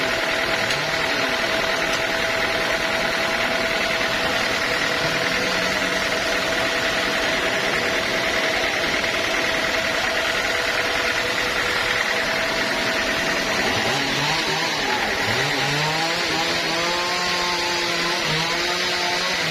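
Sawmill running and cutting through a teak log: a steady loud saw-and-motor noise. In the last few seconds a motor's pitch rises and falls repeatedly.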